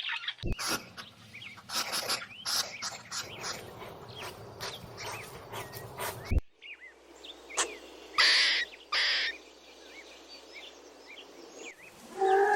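Small birds chirping in short, quick calls, in spliced clips that start and stop abruptly, with two short harsh noisy calls about eight and nine seconds in.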